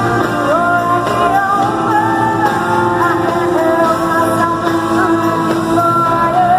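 Live pop ballad in a stadium: a woman singing with sustained, gliding notes over band accompaniment.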